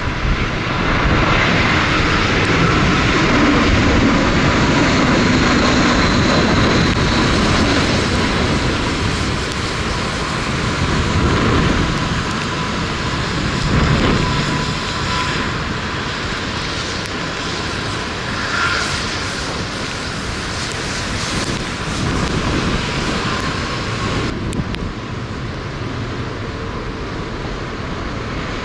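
Airliner's jet engines passing close on landing. The engines are loudest over the first dozen or so seconds, then ease off a little.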